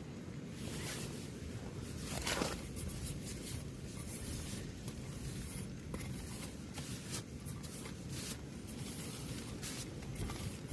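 Low, steady wind rumble against the tent, with scattered rustling and light knocks of fabric and gear being handled, the loudest about two seconds in.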